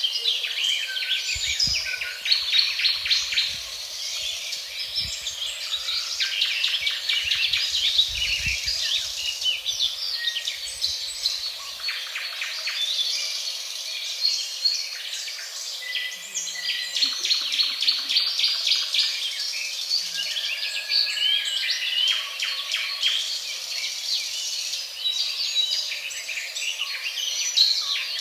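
A chorus of forest birds singing: many overlapping chirps, whistles and rapid trills, with a faint insect hum beneath.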